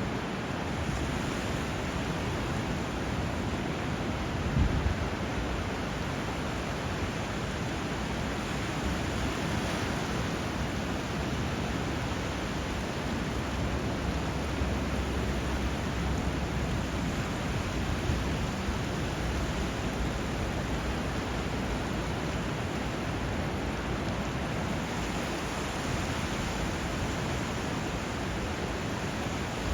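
Steady rush of flowing river water and surf, with a brief low surge about four seconds in.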